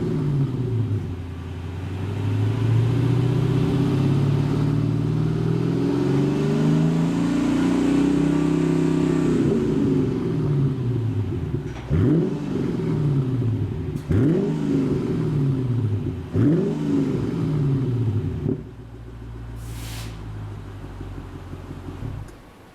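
Mercedes-Benz CL55 AMG V8 running through a one-off exhaust with a straight-through rear section, giving a deep bass note. It is revved in one long slow rise and fall, then given three sharp throttle blips, and settles back to idle about three-quarters of the way through.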